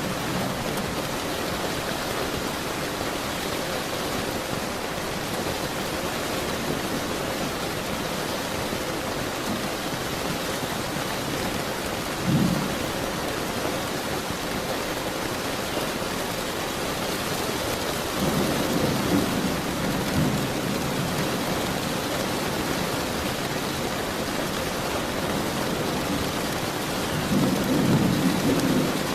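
Steady heavy rain with thunder: a brief low rumble about twelve seconds in, a longer rolling rumble a little past the middle, and another building near the end.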